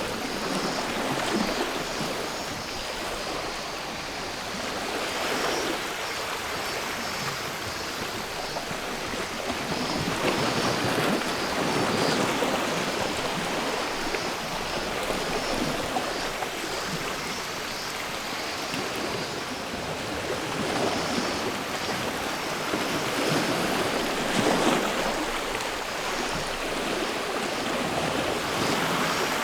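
Sea waves washing onto the shore, the surf swelling and falling back every few seconds, with cicadas droning faintly behind.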